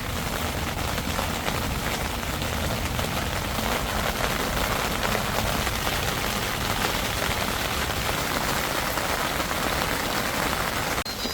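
Steady rain falling on the roof of a TPU camping shelter, heard from inside. It breaks off abruptly near the end.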